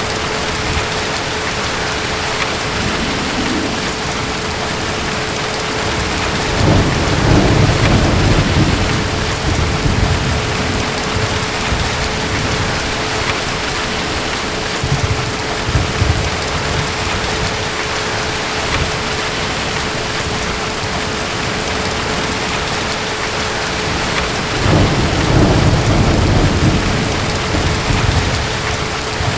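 Steady heavy rain falling, with distant thunder rumbling twice, once about a quarter of the way in and again near the end, each roll lasting a few seconds.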